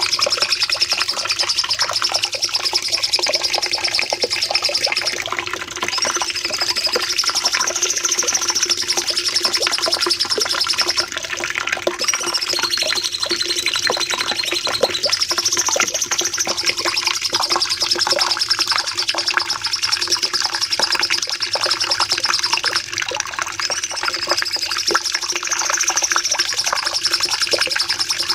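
Cucak cungkok singing long, rapid trilling phrases ('shots'), high-pitched and chattering, each running several seconds with brief breaks between.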